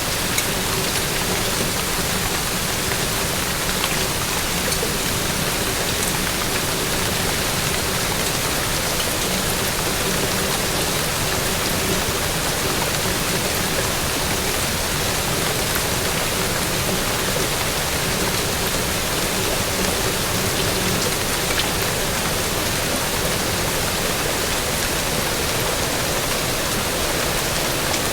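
Steady rain falling, an even hiss with scattered tiny drop ticks. A faint low steady tone sits underneath.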